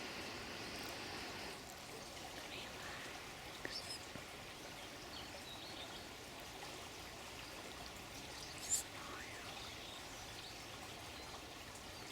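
Running water trickling steadily, with a few short high bird chirps and one brief sharper sound about two-thirds of the way in.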